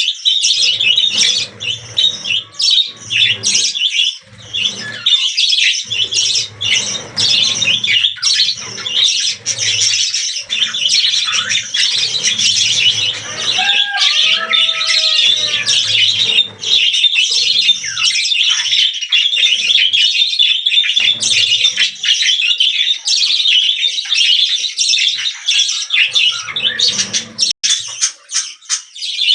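Budgerigars chattering and warbling continuously: a dense mix of many fast overlapping chirps and squawks.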